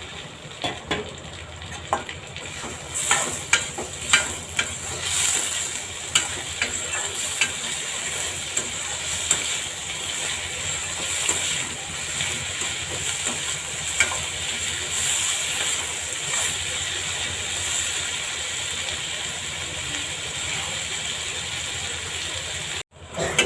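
Onions and tomatoes sizzling in a little oil in a pan while a ladle stirs them, with the ladle knocking and scraping against the pan now and then.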